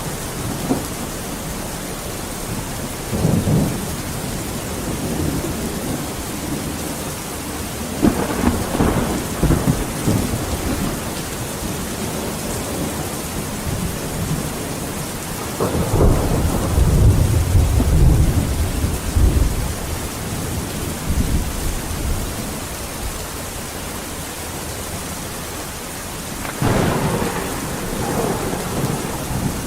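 Steady rain falling in a thunderstorm, with several rolls of thunder rumbling over it; the longest and loudest rumble comes a little past halfway.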